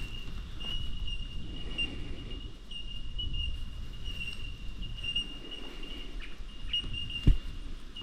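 An insect trilling: a high, steady single-pitched buzz that goes on without a break, over low rustling, with one sharp thump about seven seconds in.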